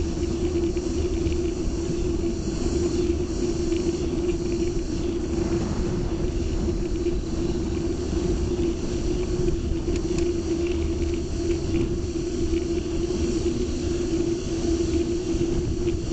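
A dense, unbroken chorus of Meimuna opalifera cicadas high in pitch, over a louder steady low hum and rumble.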